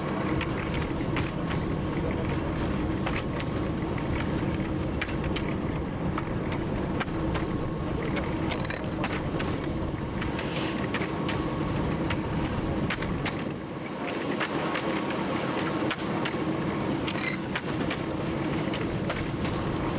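TU7 narrow-gauge diesel locomotive's V12 engine running steadily while under way, heard from the cab, with frequent clicks and knocks of the wheels over the rail joints.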